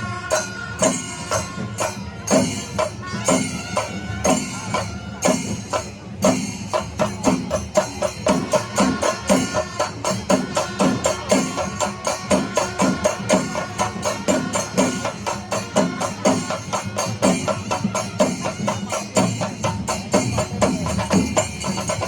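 Traditional Kerala temple percussion ensemble playing: drums struck in a steady rhythm with hand cymbals clashing, the beat quickening after about six seconds. Some held pitched notes sound over the drums in the first few seconds.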